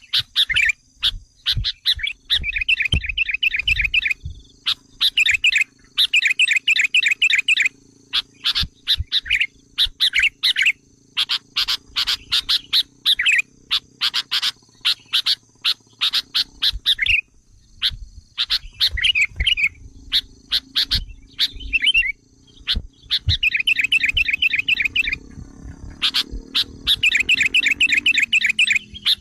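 Sooty-headed bulbul (kutilang) lure calls: bursts of rapid chattering trills, repeated over and over with short gaps, of the agitated kind used to draw wild bulbuls in.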